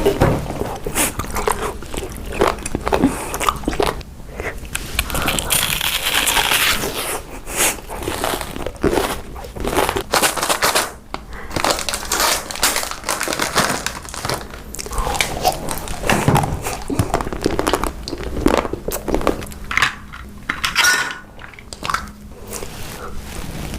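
Close-miked eating: repeated crunchy bites and chewing of crisp foods, with irregular crackles and crinkling.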